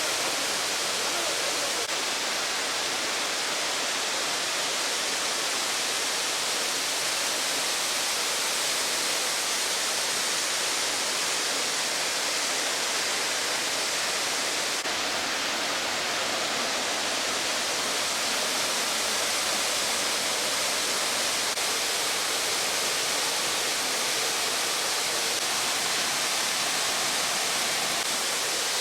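Waterfall in heavy flow after rains: water crashing down in a steady, unbroken rush.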